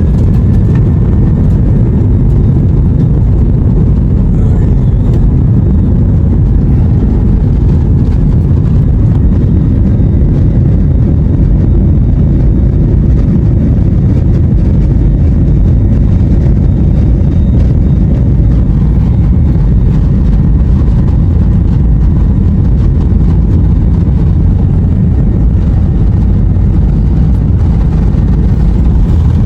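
Steady loud rumble of a passenger jet's engines heard inside the cabin as the airliner moves on the ground.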